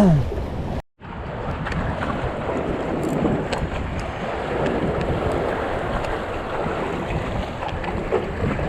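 Wind buffeting the microphone over the wash of water. The sound drops out briefly about a second in at an edit cut, then resumes as a steady rush.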